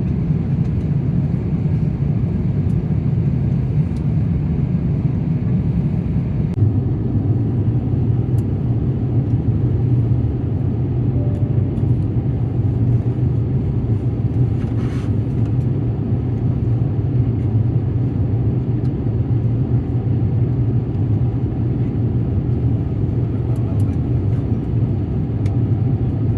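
Steady low rumble of a vehicle in motion, heard from inside, with a few faint clicks.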